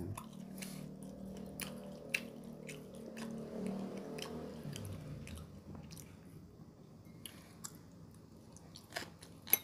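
A person chewing a mouthful of food close to the microphone, with soft wet mouth sounds and scattered small clicks. A faint low hum runs under the first half.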